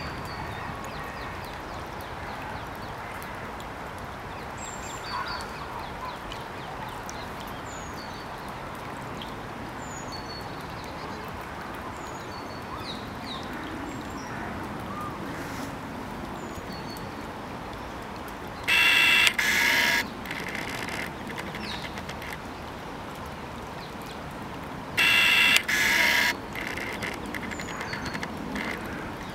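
Faint, short, high bird chirps come and go throughout. A loud double call sounds about two-thirds of the way through and again near the end.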